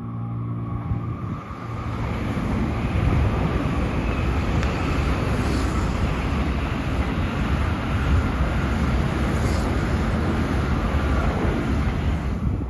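A Tokaido Shinkansen train passing on the tracks just below, a steady rushing rumble of wheels and air. It builds over the first two seconds and drops away as the last car goes by at the end.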